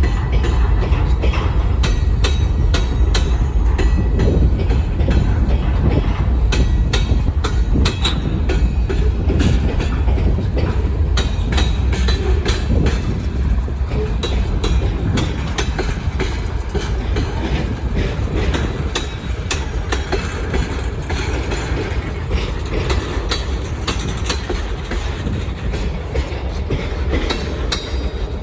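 Freight cars of a manifest train rolling past, a steady rumble with continual clicking and clanking of wheels over rail joints.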